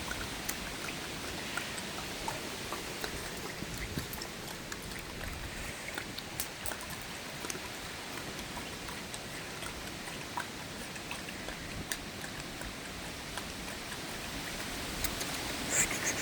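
Water trickling steadily with scattered drips and small splashes as a dog drinks from it.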